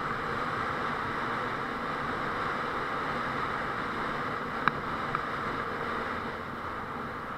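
Honda Transalp 650 motorcycle running, a steady even noise, with two short clicks a little past the middle.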